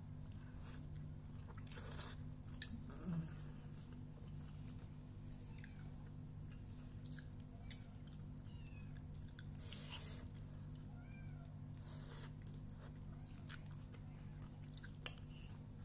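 Close-up chewing and mouth noises of someone eating fried instant noodles, with a couple of sharp clinks of a metal spoon against the plate, over a steady low hum.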